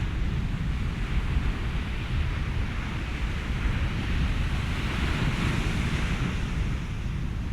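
Ocean surf with wind: a steady low rumble under a hiss of washing water, which swells about halfway through as a wave comes in and eases off near the end.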